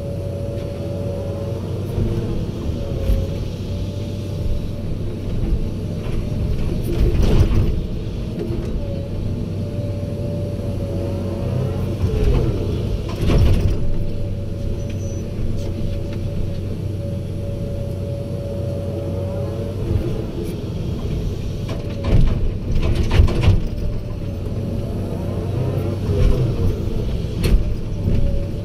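Excavator's diesel engine running steadily with a hydraulic whine rising and falling as it works, and several loud knocks and clunks while it loads earth into a dump truck.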